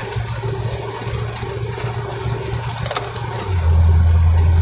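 Car engine and road noise heard from inside the cabin while driving, a steady low drone. There is a sharp click near the three-second mark. About three and a half seconds in, the low drone becomes markedly louder.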